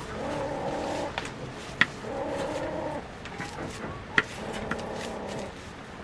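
Chickens calling: three drawn-out, steady calls of about a second each, with two sharp clicks between them.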